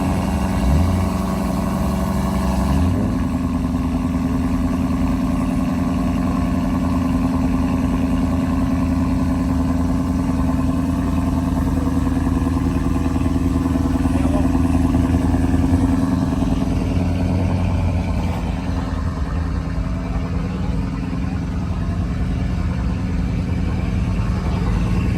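A car engine running at a steady idle, with a short rev right at the start and a shift in its pitch about three seconds in.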